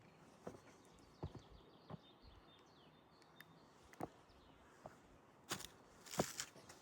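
Footsteps at an even walking pace, about one step every 0.7 seconds, with a louder scuff about six seconds in. Faint bird chirps come in the first half.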